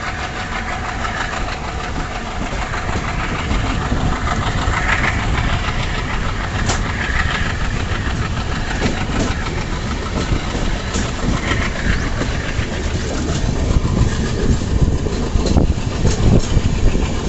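Train running on the rails: a steady rumble and rush that grows louder in the last few seconds, with short knocks from the wheels.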